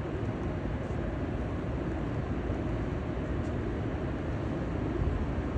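Steady low rumble with an even hiss, like a vehicle in motion.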